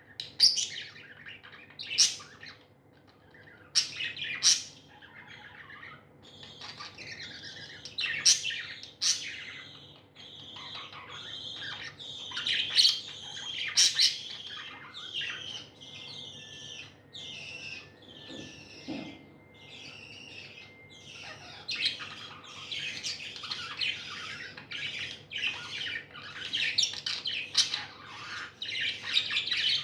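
A flock of pet budgerigars chirping and warbling almost without a break. Short, sharp, loud calls come every second or two in the first half.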